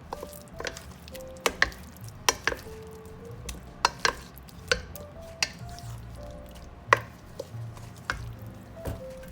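Raw fish chunks being stirred in a container, a utensil knocking against its sides in sharp, irregular clacks, the loudest about two-thirds of the way through.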